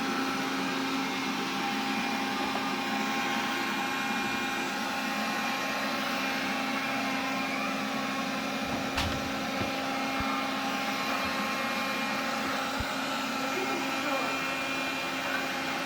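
Xiaomi vacuum cleaner running with a steady whine made of several held tones, the extraneous noise that its owner is checking. A sharp click and a few low knocks come about halfway through.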